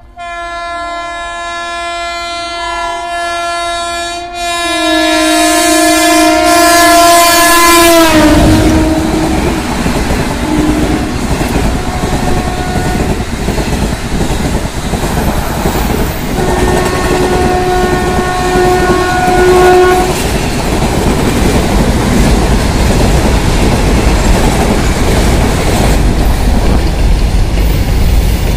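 Indian Railways express (12322 Mumbai Mail with ICF coaches) approaching at full line speed with its locomotive horn held on, growing louder. About eight seconds in, the horn's pitch drops and it cuts off as the locomotive passes. Then comes the steady rush and clickety-clack of the coaches going by fast, with another horn blast near the middle.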